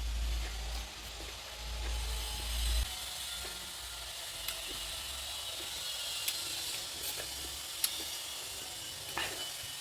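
Close-up eating sounds: chewing, with a few sharp clicks and crunches spaced a second or so apart.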